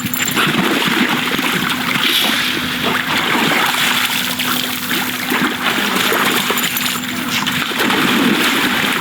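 Swimming-pool water splashing and trickling as a dog swims in it, over a steady low hum.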